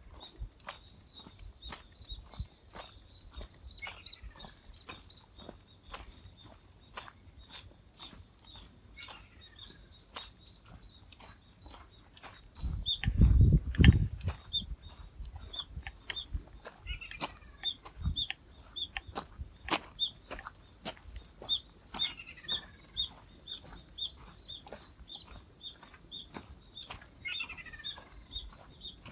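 Birds calling outdoors: a short chirp repeated about once a second and a falling call every few seconds, over a steady high insect-like hiss and scattered clicks. A brief loud low rumble comes about 13 seconds in.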